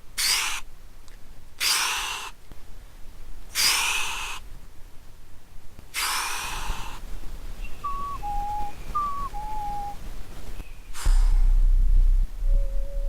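Mouth-made imitation of a Keikyu New 1000 series train with its Siemens GTO-VVVF inverter. First come four breathy hissing bursts like compressed air being released, then a whistled two-note falling chime played twice. After a further hiss a low rumble sets in, and near the end a whistled tone begins climbing in steps, the start of the inverter's rising musical scale as the train pulls away.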